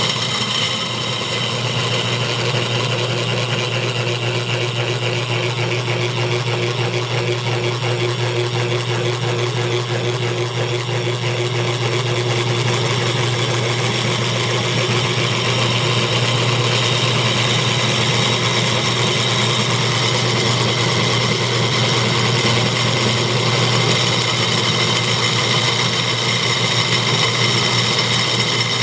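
Homemade V-shaped electromagnetic motor running at a steady speed, giving an even mechanical hum with a high whine over it.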